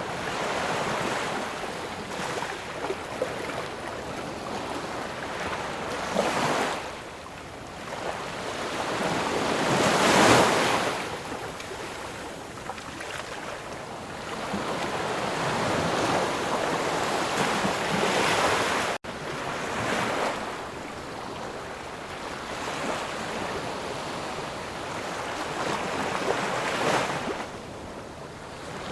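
Sea surf: waves breaking and washing up the shore in repeated swells a few seconds apart, the loudest about ten seconds in. The sound cuts out for a split second about two-thirds of the way through.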